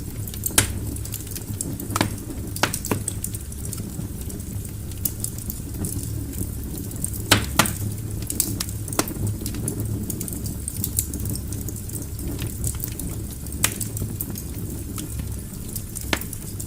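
Wood fire burning in a fireplace: a steady low rumble of flames with scattered sharp crackles and pops from the burning logs, a few louder pops standing out.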